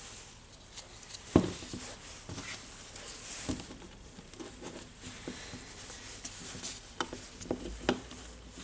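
Scattered light clicks and knocks of tool parts being handled and fitted together during reassembly of a cordless rotary hammer, with one sharper knock about a second and a half in.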